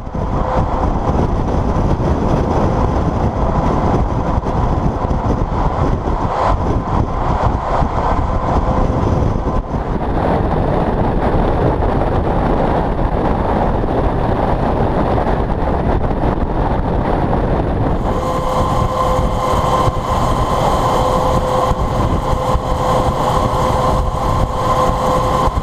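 Heavy truck traffic running on a highway: a steady, loud engine and road noise with a thin steady whine that gets stronger about eighteen seconds in.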